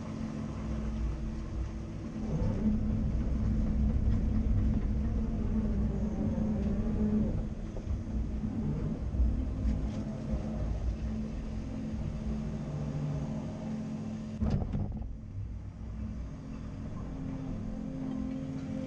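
Caterpillar 330 Next Generation excavator's diesel engine running under working load, its drone swelling and easing as the machine works, with some gliding tones in the upper part of the sound. A sharp click and an abrupt change in the sound come about three quarters of the way through.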